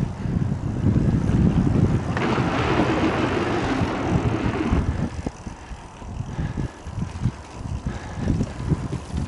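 Wind buffeting the microphone of a camera riding on a moving mountain bike, as low gusty rumbles. A steady hiss, like tyres on a rough surface, swells for about two and a half seconds in the middle.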